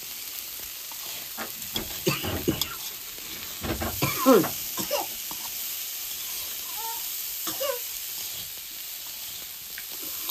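Food sizzling in hot oil in a pan: a steady frying hiss. A few brief pitched sounds rise above it, the loudest about four seconds in.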